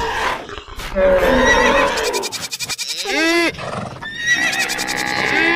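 A run of animal call sound effects, with a horse whinnying twice, once about three seconds in and again near the end, among other animal calls earlier on.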